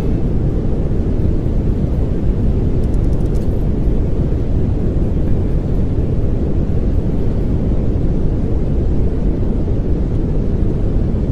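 Steady pink noise: an even, unbroken rushing hiss, heaviest in the low end, that does not change.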